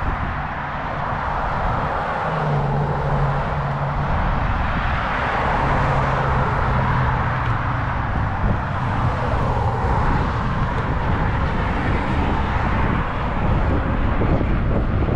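Passing road traffic and wind rushing over a helmet-mounted microphone while riding an e-bike, a steady rushing noise with a low, even hum from about two to eight seconds in.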